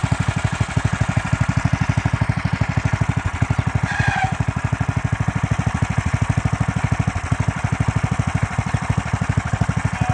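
Predator 420 single-cylinder four-stroke engine idling steadily with an even thump of firing pulses, not revved. A brief high chirp sounds about four seconds in.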